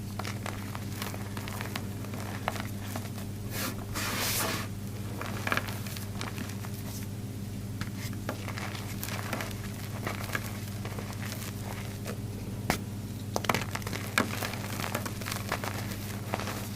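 A block of reformed gym chalk being crushed, giving dry crunches and crackles at irregular intervals. There is a longer, louder crunch about four seconds in and a run of sharp cracks about three quarters of the way through.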